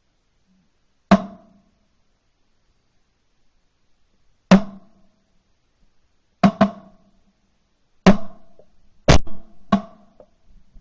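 Sharp knocks or bangs at uneven intervals: one, then another about three seconds later, then a quick double, then three more close together. Each has a short ringing tail.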